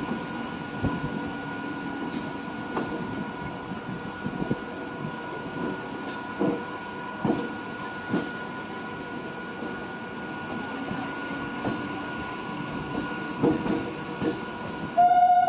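A train running past on the track: a steady rumble with a thin, constant whine, and the wheels knocking irregularly over the rail joints. Near the end comes a short, loud burst with a single clear tone.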